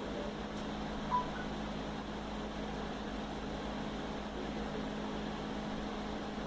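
Steady low hum over an even hiss, with one short high chirp or beep about a second in.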